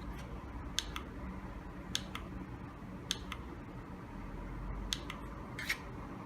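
Short, sharp clicks from handling packaging and parts during an unboxing, about six of them spread a second or so apart, over a low steady hum.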